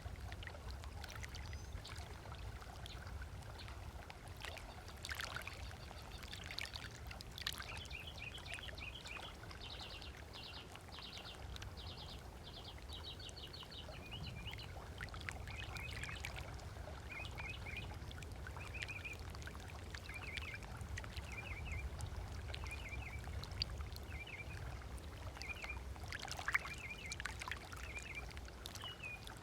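Lake water lapping gently on a sandy shore under a steady low rumble, with birds calling: a fast run of repeated chirps in the first half, then short calls about once a second.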